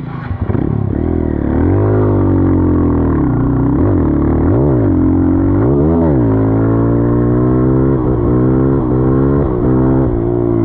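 Dirt bike engine revving, its pitch swinging up and down through several quick throttle blips in the first six seconds, then holding a steady speed with a couple of brief dips near the end.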